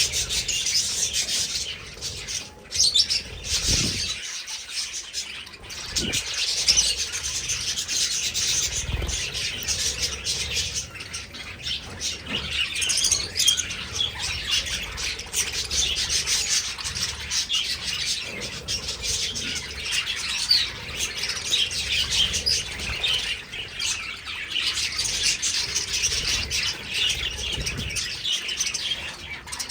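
A flock of budgerigars chattering and chirping continuously, a dense mass of overlapping high warbles, with a few low thumps in the first several seconds.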